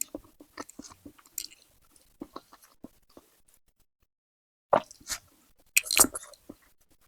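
Close-up eating sounds: a person chewing with many small wet clicks, then a few loud crisp crunching bites about five and six seconds in.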